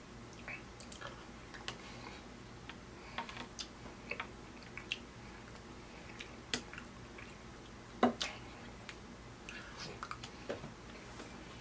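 A man chewing steak and baked beans close to the microphone: scattered wet mouth smacks and small clicks, with one louder click about eight seconds in.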